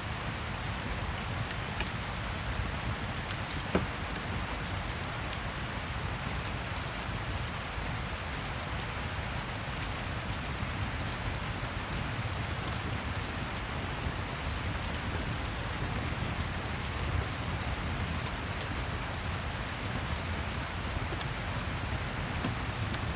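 Steady rain mixed with a crackling fireplace: an even hiss with a low rumble, small crackles scattered through it, and one sharper crack about four seconds in.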